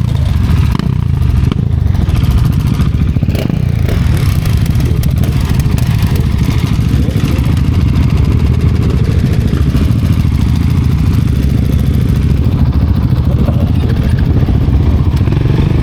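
Motorcycle riding along at steady speed: its engine running under a constant dense rumble of wind on the rider's microphone.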